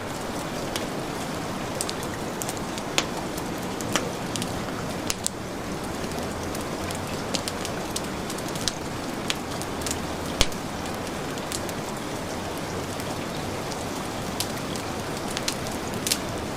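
Heavy rain falling steadily, mixed with a wood fire crackling in irregular sharp pops. The loudest pop comes a little past the middle.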